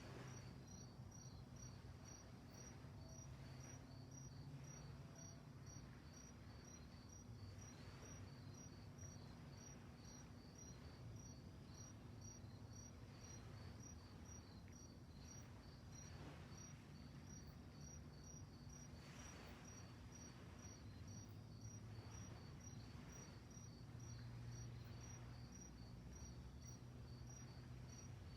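Crickets chirping steadily at night, an even high-pitched chirp repeating about twice a second, faint, over a low steady rumble.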